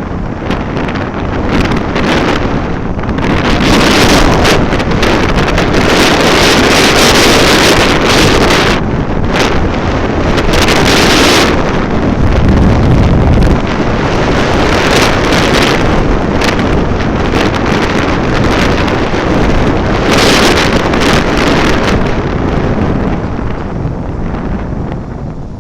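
Heavy wind buffeting the microphone of a moving vehicle, rising in louder gusts several times and easing off near the end.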